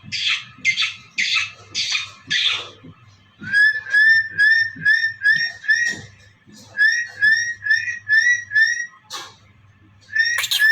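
A pet parrot calling: a quick run of raspy squawks, then short rising whistled notes about three a second, in two runs with a short break and a few more near the end.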